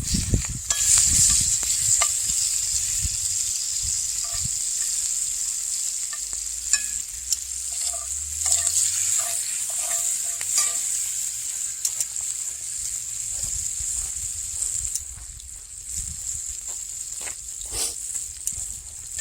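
Food sizzling in hot grease in a cast iron pan over an open fire, a steady hiss that eases somewhat after the middle, with scattered clicks and scrapes of a utensil against the pan.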